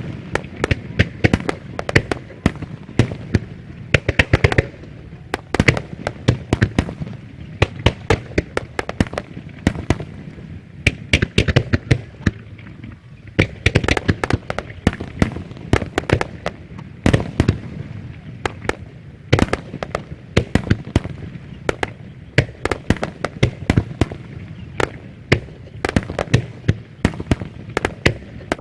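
Starmine fireworks display: a rapid, irregular barrage of aerial shells bursting with sharp bangs that echo, several a second, with short lulls between volleys.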